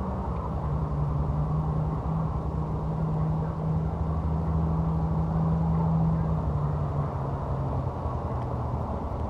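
An engine running steadily, its low hum holding one pitch and then settling a little lower partway through.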